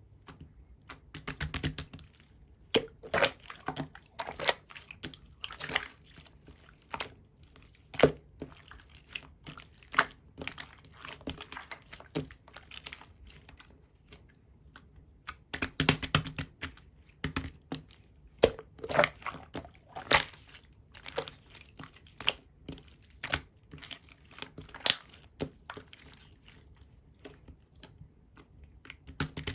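Blue clear slime squished and pressed by hand, making irregular wet clicks and bubbly popping crackles in short runs, with pauses between.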